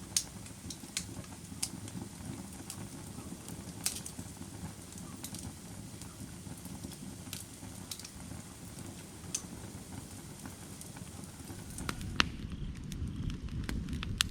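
Firewood burning, with a steady low rumble of flame and scattered sharp crackles and pops. The low rumble grows louder near the end.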